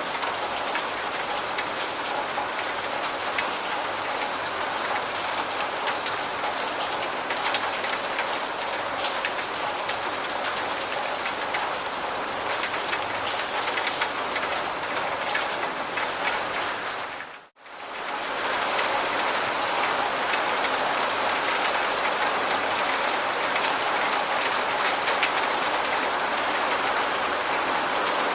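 Steady rain with a dense patter of drops. About two-thirds of the way through it fades out almost to silence and comes straight back in.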